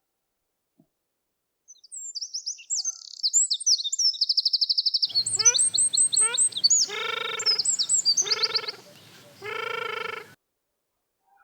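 Birds singing: rapid, high, twittering trills, joined about halfway through by three longer, lower, harsher calls from another bird. The sound cuts off suddenly near the end.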